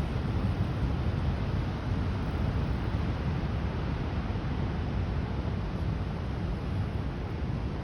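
Steady wind noise rushing and buffeting over the microphone of a moving bicycle.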